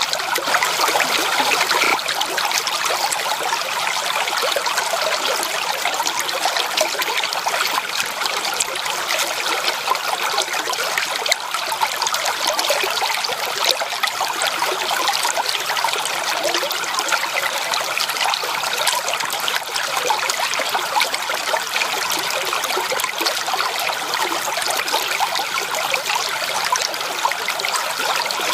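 Flowing stream water: a steady, even splashing rush with no breaks.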